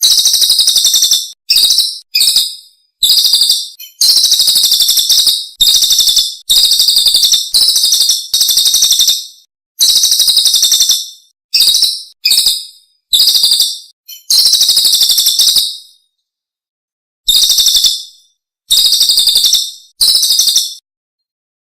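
A songbird repeating loud, rapid, high-pitched trilled chatter phrases, each under two seconds long, with short silent gaps between them.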